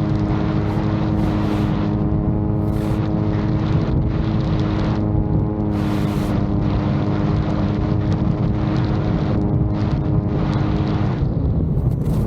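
VTOL drone's motors and propellers running with a steady pitched hum that fades about eleven seconds in, under heavy buffeting and gusts of strong wind on the microphone.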